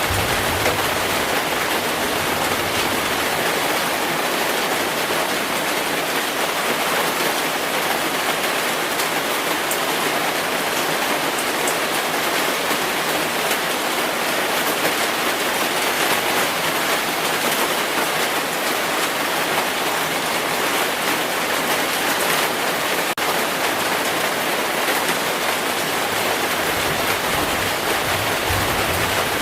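Heavy rain falling steadily, an even, unbroken wash of noise with no thunder.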